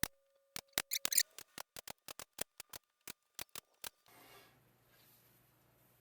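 A rapid run of sharp, dry clicks, thickest about a second in and then ticking about four or five times a second, stopping about four seconds in; a faint low hum follows.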